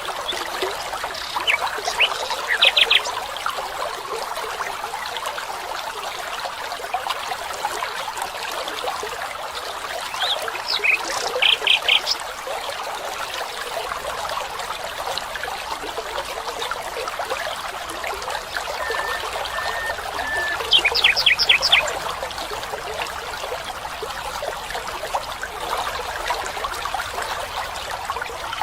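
Steady trickle of a stream, with a bird calling over it in short quick runs of high repeated notes, three times about ten seconds apart, and a brief low whistle just before the last run.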